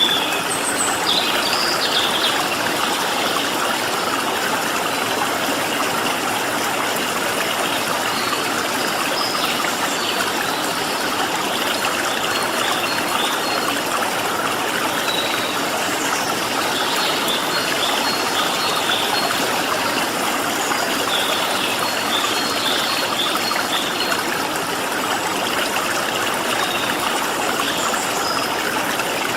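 Steady rush of flowing water, with small birds chirping over it in quick runs of short high notes, most around the start and again through the middle of the stretch.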